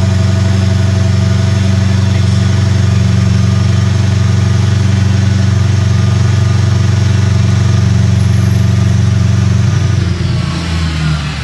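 BMW N63 twin-turbo V8 idling steadily through a catless-downpipe, dual X-pipe and Vibrant muffler exhaust, a loud, deep, even exhaust note. Near the end the note drops in level and changes pitch.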